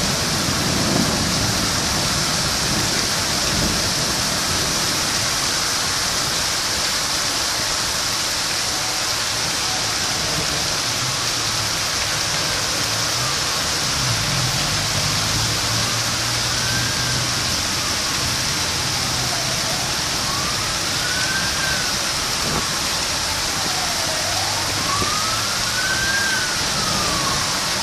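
Heavy rain falling steadily. From partway through, a siren is heard under the rain, wailing slowly up and down in pitch, one rise and fall about every four seconds.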